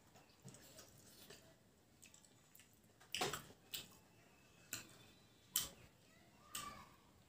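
A person chewing a mouthful of pork with wet smacking sounds from the mouth, about five sharp smacks in the second half.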